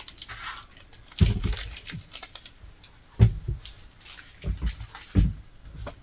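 Several irregular knocks and clunks of objects being handled and set down in a small room.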